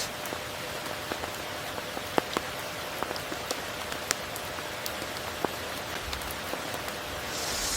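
Steady rain falling: an even hiss with scattered sharp drop impacts, and a brief swell in the hiss near the end.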